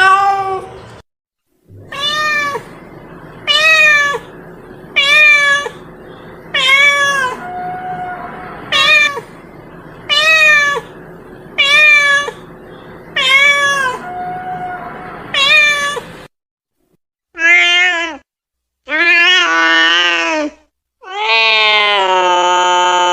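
A cat meowing: about ten short meows roughly every one and a half seconds over a faint steady hum, then, after a short pause, three longer and louder drawn-out meows, the last held about two seconds.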